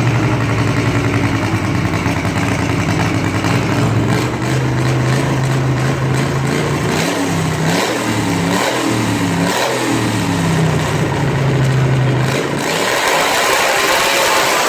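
Pulling tractor's engine running hard at a steady high pitch, with its pitch dipping and rising several times about halfway through. The engine sound drops away about two seconds before the end.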